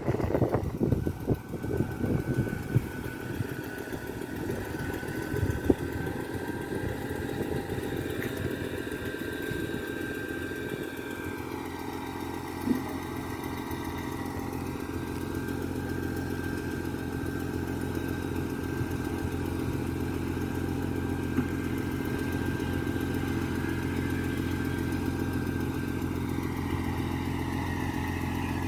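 Concrete pump truck's engine running with a steady high whine over it. For the first ten seconds or so there is irregular clattering, then the engine settles into an even hum.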